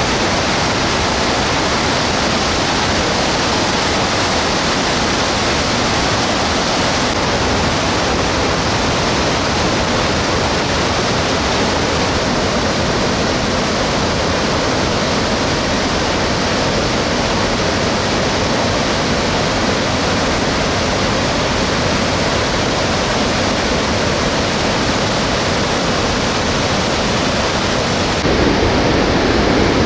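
Mountain stream rushing over rocks, running high after monsoon rain, a steady roar of water. Near the end the sound shifts, deeper and with less hiss.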